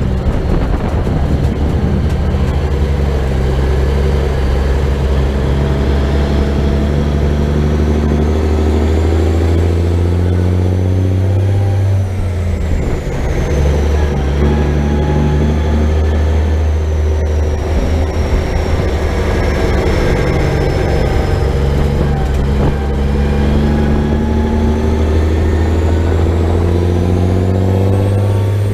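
American big-rig truck's diesel engine pulling under load, its pitch climbing slowly, dropping about twelve seconds in as it shifts gear, then climbing again.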